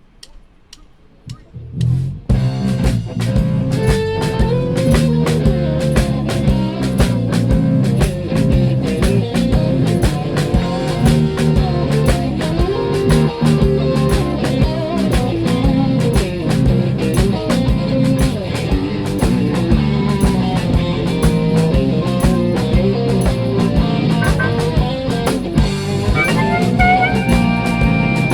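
Live blues band starting a song: after a few faint clicks, guitars, bass and drum kit come in together about two seconds in and play a steady blues groove.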